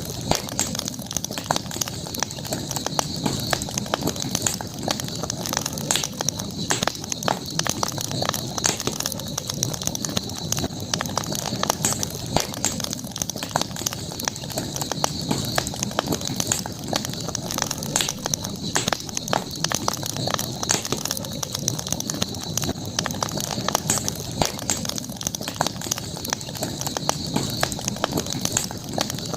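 Campfire burning, the wood crackling and popping many times a second over a low steady rush, with a steady high-pitched hum in the background.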